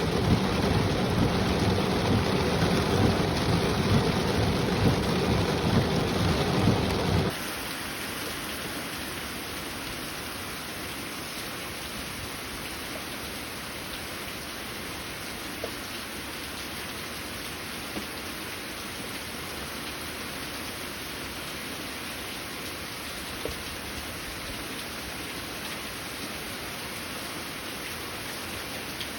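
Heavy rain with a low, rolling rumble of thunder, which cuts off abruptly about seven seconds in to a steadier, quieter hiss of rain with a few faint drips.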